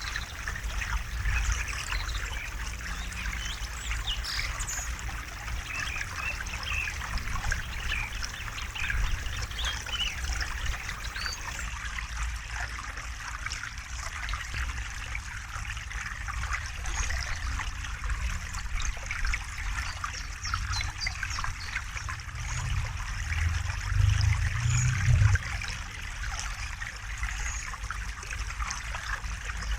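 River water trickling and splashing steadily, over a low rumble; a deeper low rush swells up briefly about three-quarters of the way through.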